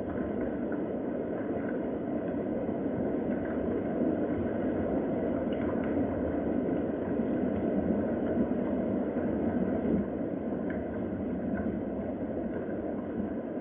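Steady rain, an even unbroken rushing with a few faint light taps.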